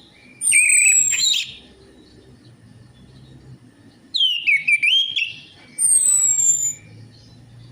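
Orange-headed thrush singing in three short phrases, each a high falling whistle over quick chattering notes, with pauses between.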